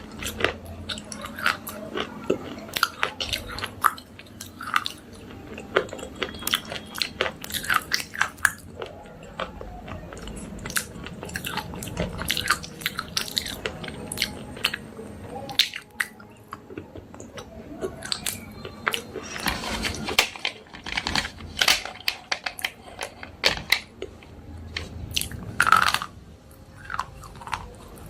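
Slate pencils being bitten and chewed: a run of sharp, irregular crunches, close to the microphone.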